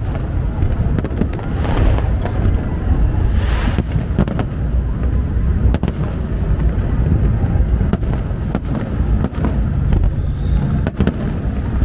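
Large fireworks display: many sharp bangs of shells bursting in quick, irregular succession over a continuous low rumble of further explosions.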